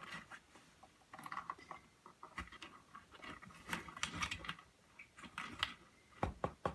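A macaw's beak pecking, chewing and scratching at a cardboard box: irregular crackling and clicking, with a few sharp knocks near the end.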